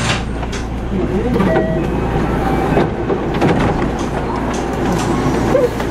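Electric train standing at a station platform: a steady low hum from its equipment, with scattered clicks and knocks and indistinct voices of people nearby.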